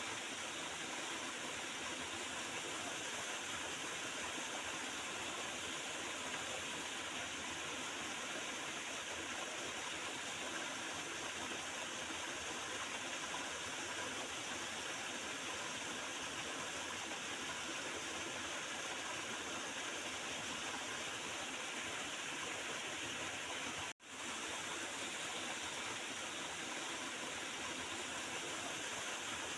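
Water of a small river gurgling and flowing steadily. A little before the end it cuts out for an instant and fades straight back in.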